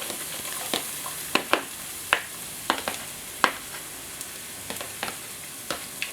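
Garlic and chopped chillies sizzling in hot olive oil in a pan, a steady hiss, while a utensil stirs and knocks against the pan in irregular clicks.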